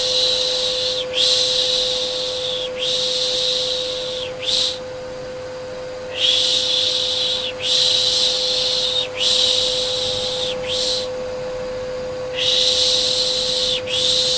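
Long, repeated shushing "shhh" hisses, each about a second or more with short breaks and a longer pause every few seconds, over a steady vacuum cleaner hum. Baby-calming white noise.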